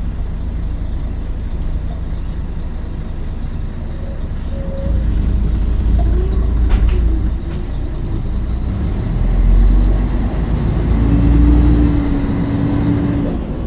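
Scania L113CRL bus's six-cylinder diesel engine running, growing louder from about five seconds in and working hardest in two surges near the end, with a rising whine as it pulls.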